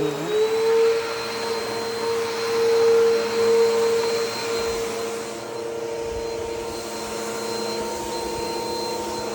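Bissell PowerForce Helix upright vacuum cleaner running on carpet, a steady motor whine over a rush of air. It swells in loudness a few times in the first half, then settles.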